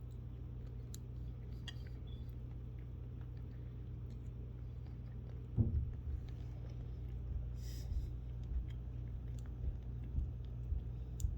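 Food being chewed, with small crisp clicks and crunches over a steady low hum. A louder knock comes about halfway through, followed by several smaller knocks near the end.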